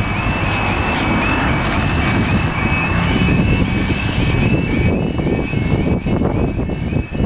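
Low rumble of a train or other vehicle with wind buffeting the microphone, over a steady warbling electronic warning alarm that repeats about twice a second.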